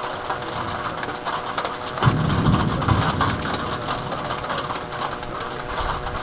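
Heavy thunderstorm rain hitting surfaces as a steady patter of many small ticks, over a steady hum. A louder low rumble starts abruptly about two seconds in and fades over about a second and a half.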